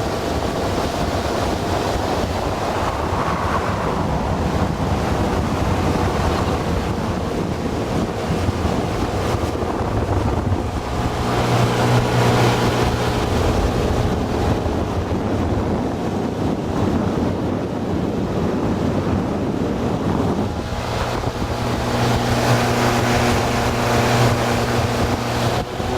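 Progress motorboat under way, its outboard motor running steadily, with wind buffeting the microphone and water rushing past the hull. The engine note steps up to a stronger, steadier pitch about eleven seconds in, dips, and rises again near the end.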